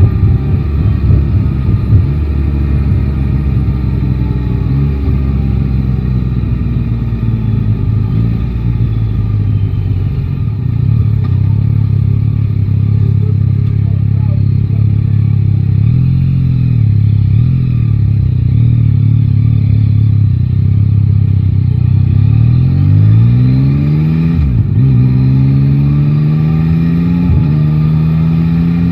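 Yamaha Tracer 9 GT's 890 cc inline-three engine, its pitch falling as the throttle is eased at first, then running at low revs with small throttle changes. Near the end it pulls up through the gears: rising revs broken by quick shifts.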